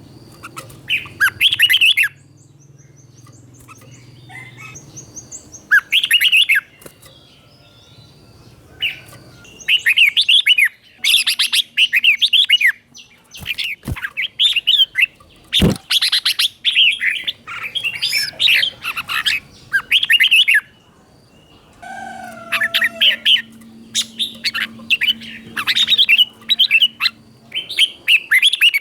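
Red-whiskered bulbul singing: bursts of quick, bubbly whistled phrases, several seconds each, broken by pauses. Two sharp clicks come a little past the middle.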